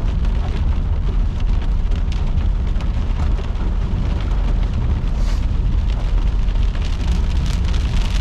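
Heavy precipitation hitting a moving vehicle: a steady rain-like hiss with many scattered sharp ticks of impacts on the body, over a strong low road rumble.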